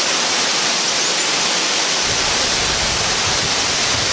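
Loud, steady rush of a waterfall. About halfway through, a low rumble of wind on the microphone joins it.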